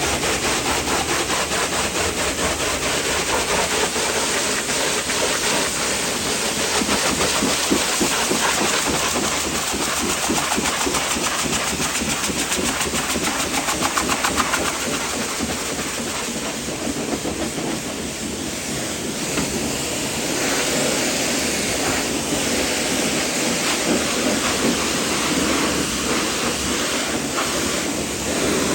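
Pressure washer spraying water onto the truck: a steady loud hiss that thins a little past the middle.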